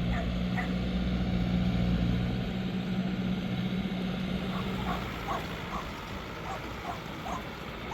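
New Holland TL100 tractor's diesel engine running steadily under ploughing load, dropping away about five seconds in, while a dog yips repeatedly with short high calls.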